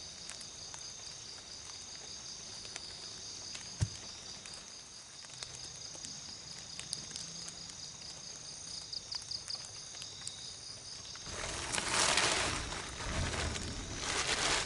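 Night insects chirring steadily in a high pitch, with one short knock about four seconds in. Near the end the insects are drowned by louder rustling and crunching.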